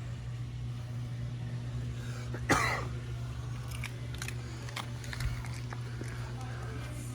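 A man coughs once, sharply, about two and a half seconds in, over a steady low hum, with a few light clicks afterwards.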